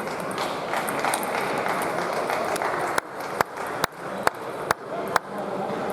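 Table tennis ball clicking: six sharp, evenly spaced pings, about two a second, starting about halfway through, over a steady hall noise.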